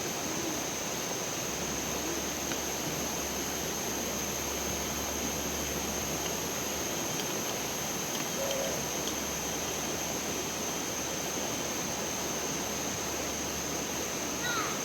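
Steady rush of flowing stream water, with a faint steady high tone above it.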